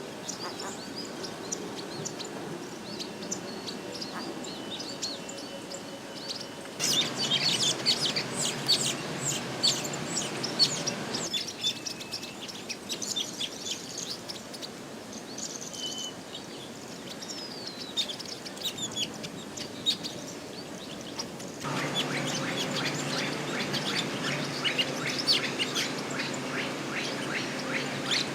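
Village weavers chattering: many short, high chirps and buzzy calls over a steady background hiss. The calls get denser and louder at about seven seconds and again from about twenty-two seconds, each time with an abrupt change in the background.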